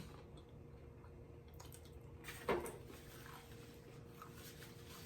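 Quiet eating sounds close to the microphone, with one short, wet mouth sound about halfway through and a few faint clicks after it.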